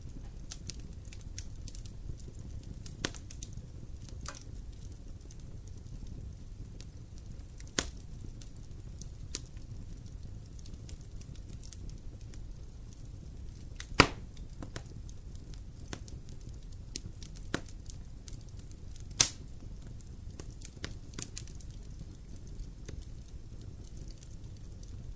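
Wood fire crackling in a fireplace: irregular sharp pops and snaps over a low steady rumble, with two louder pops about halfway through and a few seconds later.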